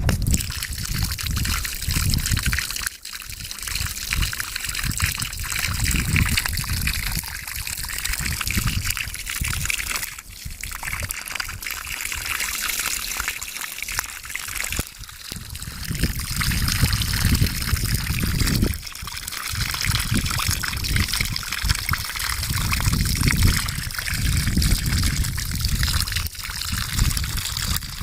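Water running steadily out of a water heater, the flow clouded with built-up sediment, with an uneven low rumble underneath.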